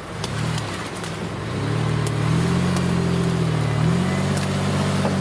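Off-road SUV engine revving up about a second and a half in and holding steady revs under load, with a few sharp clicks.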